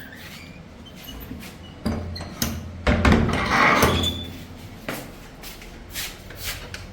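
A person moving about: a string of sharp clicks and knocks, with a longer scraping rustle about three seconds in.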